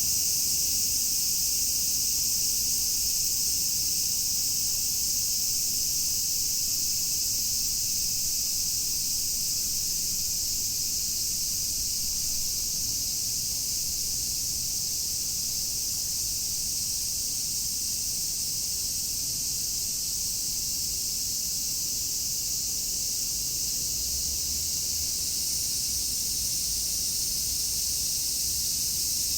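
A dense chorus of many cicadas singing together: a continuous high-pitched drone that holds steady without breaks.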